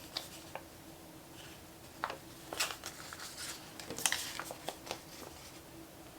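Paper planner stickers being handled, peeled off a sticker sheet and pressed down: scattered light clicks and short paper rustles, with the busiest crinkling about four seconds in.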